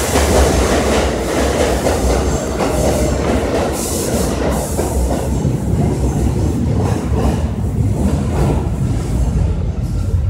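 New York City Subway A train running on the elevated track.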